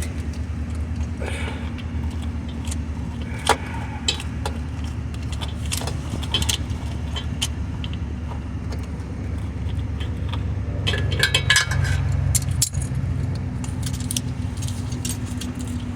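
Light metallic clinks and rattles of hand tools, socket and bolt while a starter motor is being unbolted by hand, scattered through and bunched together about eleven seconds in. A steady low hum runs underneath.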